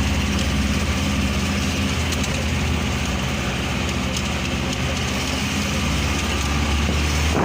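Vehicle engine running steadily as it drives along, a low even hum under road noise.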